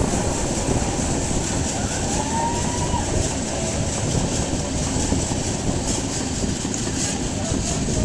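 Indian Railways train running at speed: a steady, loud rumble and rattle of wheels and coaches.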